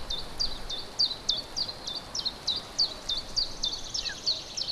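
Golden eagle chick giving rapid, repeated high-pitched begging calls, about three to four short downward-slurred notes a second, while being fed.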